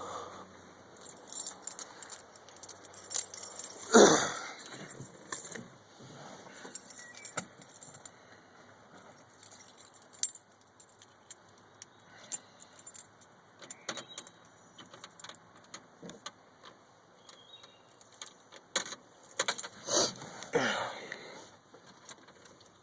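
Bunch of keys jangling and clicking while being handled, with scattered small knocks and two louder thumps, about 4 seconds in and near the end.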